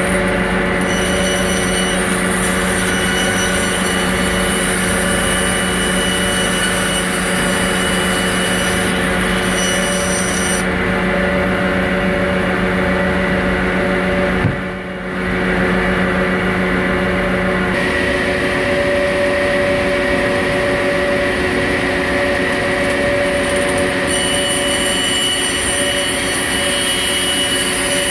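A power tool running steadily and loudly, with a click and a brief drop in level about halfway through.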